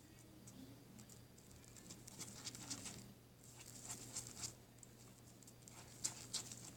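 Slime being squished and kneaded by hand: faint, irregular sticky clicks and crackles, busiest in the middle and again near the end.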